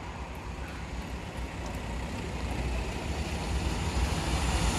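Class 47 diesel locomotives approaching on a charter train, a steady low engine rumble and track noise growing gradually louder.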